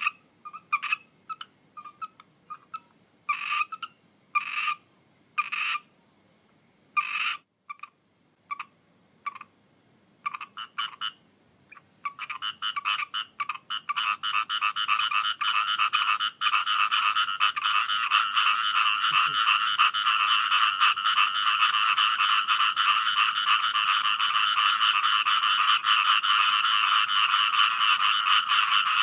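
Frogs croaking: scattered single calls at first, then about twelve seconds in they swell into a dense, continuous chorus.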